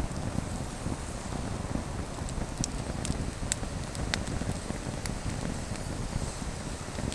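Steady low wind rumble on the microphone, with scattered sharp ticks or crackles every second or so.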